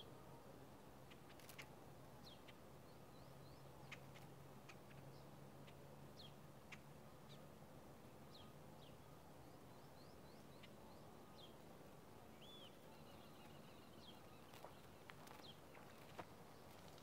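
Small songbirds giving short, scattered chirps, faint over a quiet outdoor background, with a faint low hum that fades out about two-thirds of the way through.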